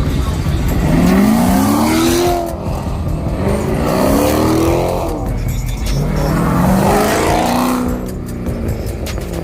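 Car engine revved hard three times, its pitch rising with each rev and falling back between.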